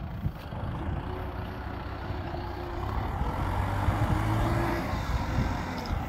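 Kubota M6040SU tractor's diesel engine running under load while stuck in deep mud, getting louder for a couple of seconds around the middle as it is worked harder.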